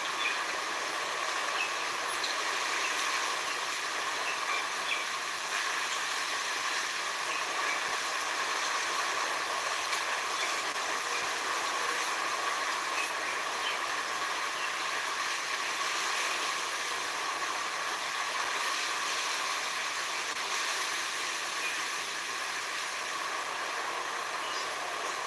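Steady natural outdoor ambience: an even hiss that holds a constant level throughout, with a few faint short chirps scattered through it.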